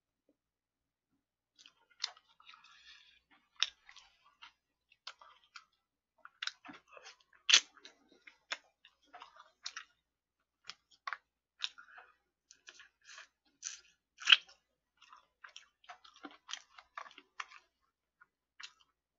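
Chewing and crunching of fried chicken, with irregular sharp crunches and mouth clicks starting about two seconds in.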